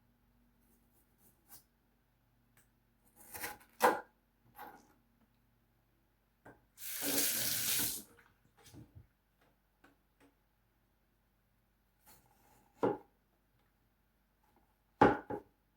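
Kitchen tap running for about a second, with a few scattered knocks and clinks of handling before and after.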